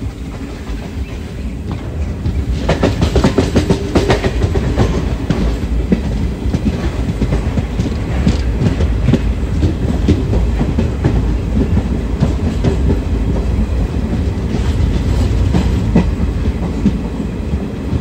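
ICF passenger coach running along the track: a steady low rumble of the wheels, with bunches of sharp clickety-clack as the wheels pass over rail joints. It builds up over the first few seconds and then holds steady.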